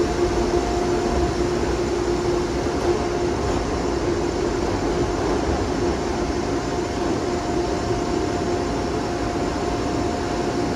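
Metro-North commuter train's Shoreliner coaches rolling past at low speed as the train pulls out, a steady rumble with a constant hum.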